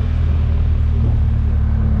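Motorcycle engine running at a steady, even pitch while riding, with a low drone.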